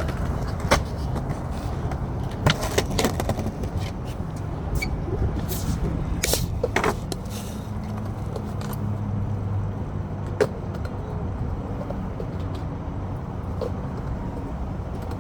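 Skateboard rolling on concrete: a steady low wheel rumble broken by several sharp clacks of the board and wheels.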